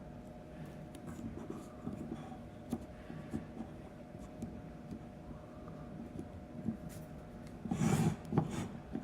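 Stickers being handled and rubbed down onto a small wooden toy truck: soft scraping and light clicks, with a louder rustle near the end.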